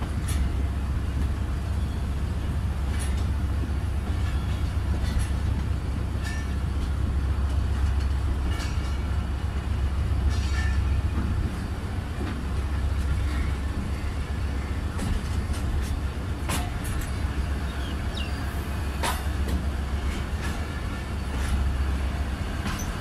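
Passenger train heard from an open coach window as it moves slowly out of a station: a steady low rumble with scattered sharp clicks every few seconds from the wheels on the track.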